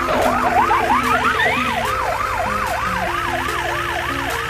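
Cartoon police car siren yelping, sweeping up and down about three times a second over a steady low engine rumble.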